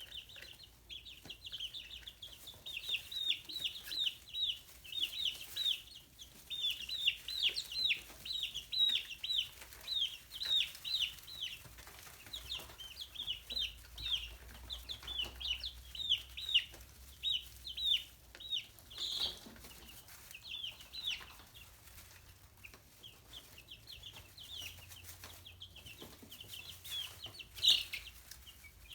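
Chicks peeping: many short, high-pitched chirps, each falling in pitch, coming in quick overlapping runs.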